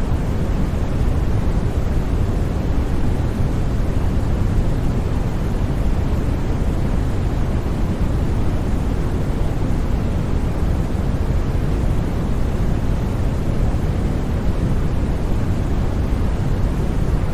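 Steady white noise for sleep: an even, unbroken rush with no tones or events, its weight in the low end and fading toward the top.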